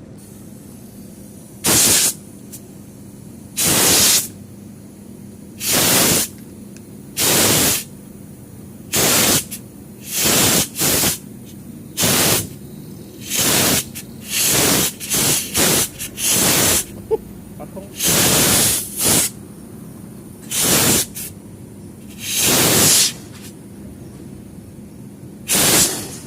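Air-conditioning copper refrigerant piping being flushed with compressed gas: repeated short blasts of hiss as the gas is let through the line in bursts, some in quick succession.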